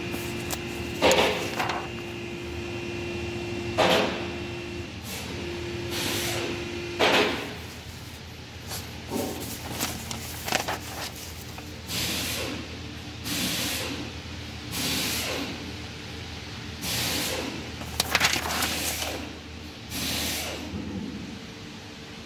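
Handling noises while working on a car: a series of knocks and clicks a few seconds apart, with a steady hum that stops about seven seconds in.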